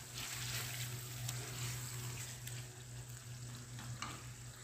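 Chicken karahi in its yogurt masala sizzling gently in a wok-style karahi over low heat, with a wooden spoon stirring and scraping the pan a few times; a low steady hum runs underneath. The yogurt is cooking into the masala at the final stage of the dish.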